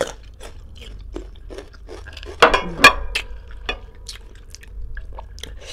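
Close-up biting and chewing of crisp young ambarella fruit dipped in shrimp paste: a string of short wet crunches and clicks, the two loudest about two and a half and three seconds in.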